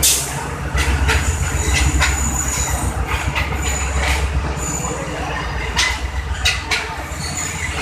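Passenger coaches rolling slowly past: a low steady rumble of wheels on rail, irregular clacks as the wheels cross rail joints, and faint, brief high squeals from the wheels as the train comes into the station.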